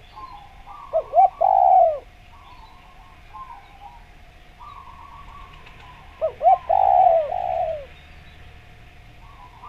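Spotted dove (derkuku) cooing: two phrases about five seconds apart, each two short notes followed by a longer drawn-out coo. Fainter twittering of small birds between the phrases.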